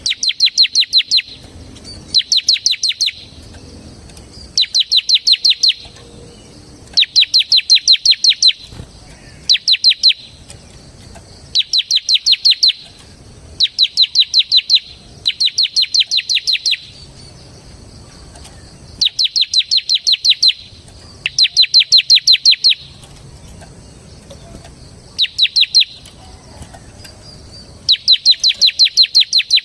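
A ciblek (bar-winged prinia) singing in the rapid rattling 'ngebren' style: bursts of quick, sharp, high notes, each burst lasting about a second, repeated every couple of seconds.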